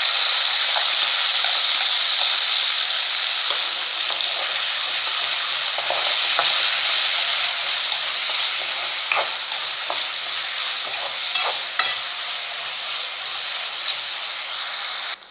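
Onions frying in hot sesame oil in a kadai: a loud, steady sizzle that eases a little toward the end. It is dotted with the occasional tap and scrape of a spoon stirring them.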